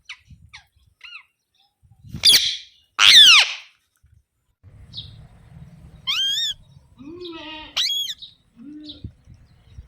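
Alexandrine parakeet calling: a few faint chirps, then two loud harsh screeches about two and three seconds in, the second long and falling in pitch, followed by several shorter up-and-down calls.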